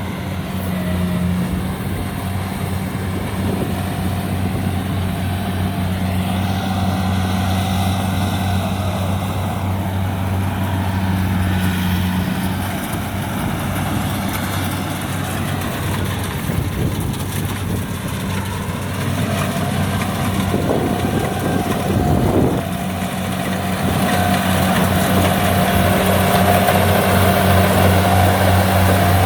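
Rice combine harvester engine running steadily, a constant low drone that gets louder near the end.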